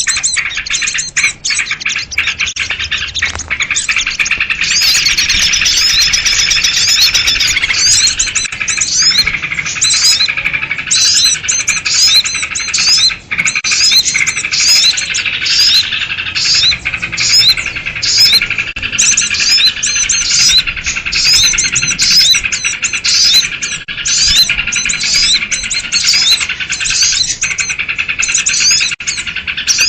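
A dense, noisy chorus of many small birds chirping and calling over one another, built around sooty-headed bulbul (kutilang) calls. The rapid, overlapping chirps run without a break.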